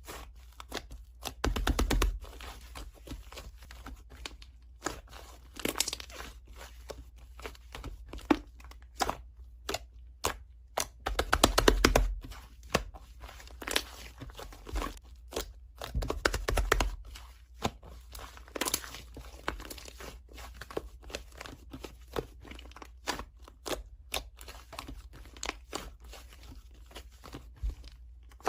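Paper and plastic being handled up close: crinkling, tearing and light taps, with a few louder rustling bursts about 2, 12 and 16 seconds in.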